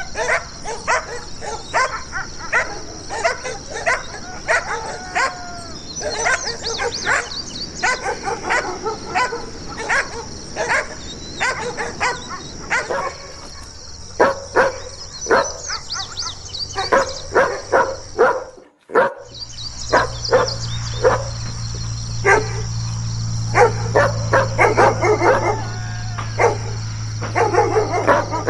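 German shepherd-type dogs barking repeatedly and aggressively, in quick runs of barks. In the last third a steady low hum runs under the barking.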